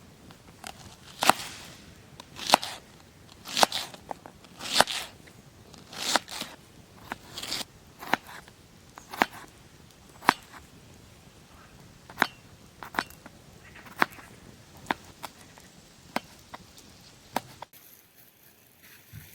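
Chopping: sharp strokes about once a second, the first few heavier with a short rasp, the rest lighter clicking strikes. The strokes stop a little before the end.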